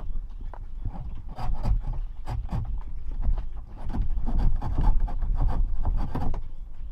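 Irregular clicks, knocks and rubbing over a steady low rumble, busier in the second half.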